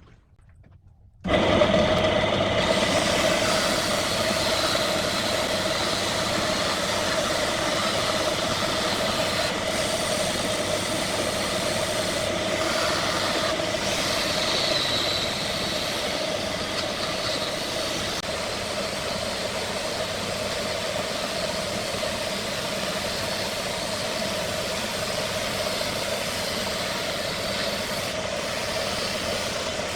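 Wood lathe running steadily, its motor giving a steady hum with a constant tone over a noisy whir. It starts suddenly about a second in.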